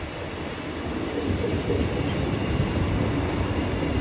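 A JR Freight container train's flat wagons (Koki 104/106 type) rolling past, with a steady noise of wheels on the rails.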